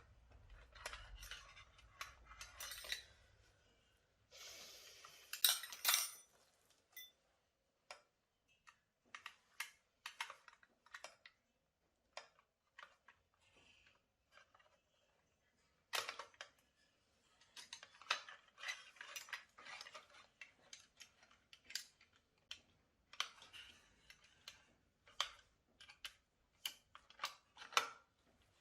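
Small metal tools and parts clicking and clinking as they are handled, in irregular short knocks with a brief scraping rustle about five seconds in.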